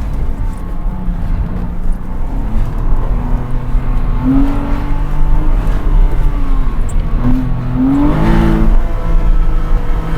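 Porsche Cayman 987's 2.7-litre flat-six engine driven hard, its revs climbing and falling repeatedly through gear changes and braking, rising highest about eight seconds in.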